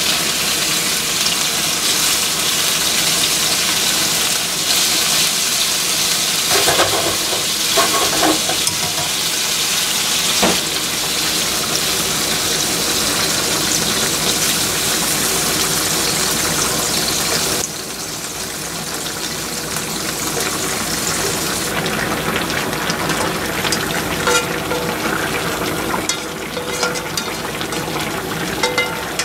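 Hamburger patties sizzling in a sukiyaki pan: a dense, steady hiss with scattered small crackles and clicks. It drops abruptly to a quieter sizzle a little past halfway through.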